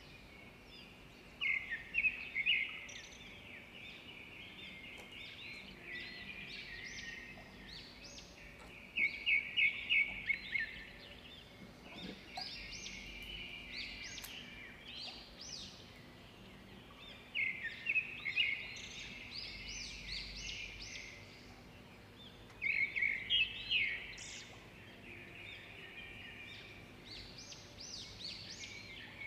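Birds singing: a trilled phrase of quick repeated notes comes back five times, a few seconds apart, over steady background chirping.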